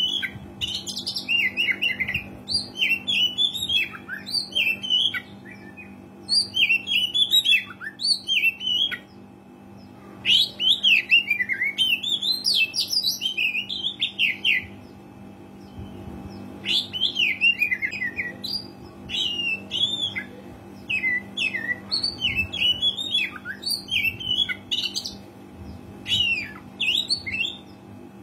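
Oriental magpie-robin singing a long, varied song of rapid whistled and chattering phrases, with short pauses about nine and fifteen seconds in. A faint steady hum lies underneath.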